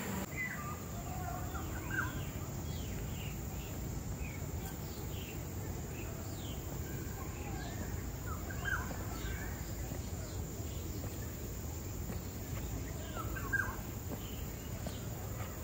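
Several birds chirping, with short calls scattered throughout over a steady low rumble.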